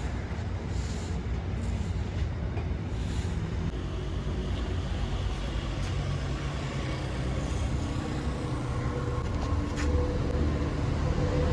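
Road traffic: vehicle engines running past as a steady low rumble, growing louder near the end as a vehicle draws close.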